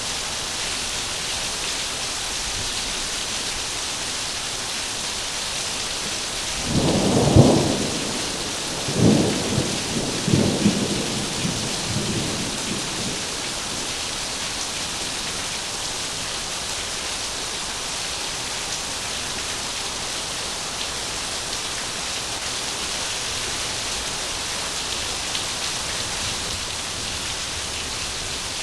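Heavy rain falling steadily. About seven seconds in, a thunder clap crackles and then rumbles on in several rolls over the next five seconds.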